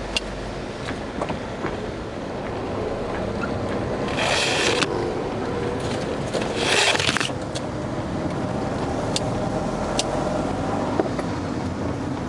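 Steady car engine and road rumble, with two brief rushing swells about four and seven seconds in and a few light clicks.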